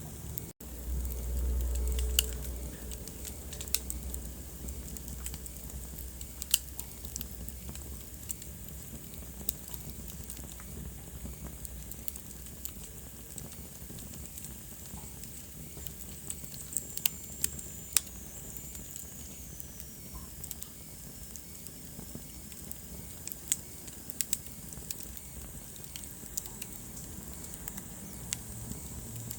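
Wood fire burning in a fireplace: a steady hiss with scattered sharp crackles and pops. A brief low rumble comes in about a second in, and a faint whistle falls in pitch about halfway through.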